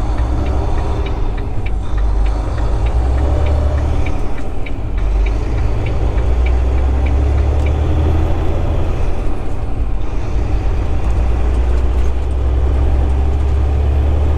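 Semi truck's diesel engine droning steadily with road noise, heard from inside the cab while driving. A light, regular ticking runs through the first few seconds.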